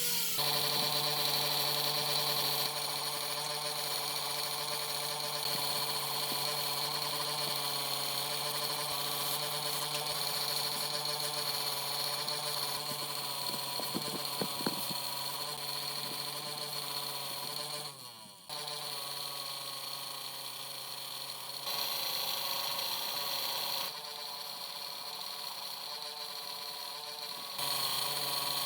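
A workshop machine or power tool running steadily, a constant hum with overtones. It cuts out briefly about two-thirds of the way in, and its level steps up and down a few times.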